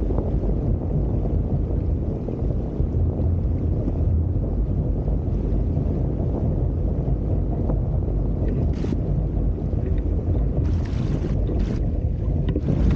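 Wind buffeting the microphone as a Hobie Tiger F18 catamaran sails, a steady low rumble. Short hissing splashes of water come about two-thirds of the way in and again near the end.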